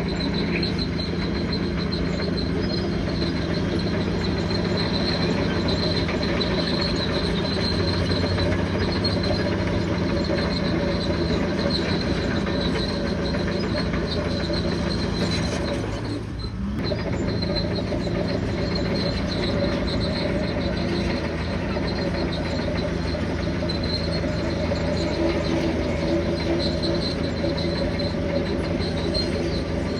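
Bulldozer's diesel engine running steadily under load, with a steady high whine over it. The engine note dips briefly about sixteen seconds in, then carries on.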